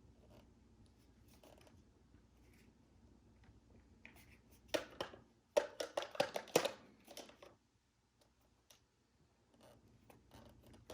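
Hard plastic vacuum parts handled and fitted together: a quick run of clicks and clatters about five to seven and a half seconds in, with a few faint knocks before and after.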